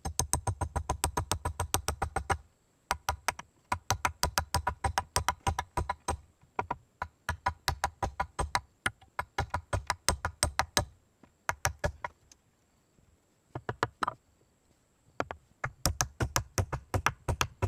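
Rapid, sharp tapping, about eight taps a second, in runs of a few seconds broken by short pauses.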